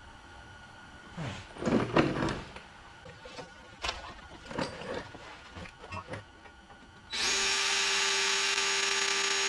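Scattered metal knocks and scrapes, then about seven seconds in a power drill starts and runs steadily at a constant pitch, drilling out the fasteners of a bump stop on a car frame.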